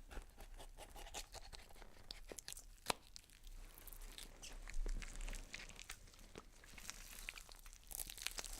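Faint handling noises: scattered small clicks and rustling, with one sharper click about three seconds in.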